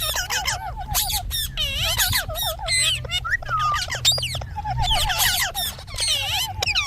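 Indian ringneck parakeet calling: a fast, unbroken run of high chirps, squawks and sliding whistle-like notes mixed with sharp clicks.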